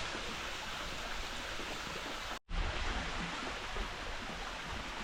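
Rushing water of a mountain stream, a steady even hiss, which cuts out briefly about halfway through.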